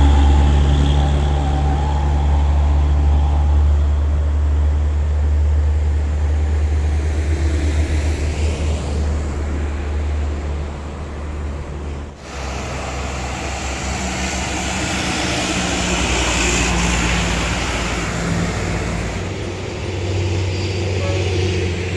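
Diesel truck engines pulling up a hill under load, a heavy low drone. The sound breaks off suddenly about twelve seconds in and picks up again on another truck climbing.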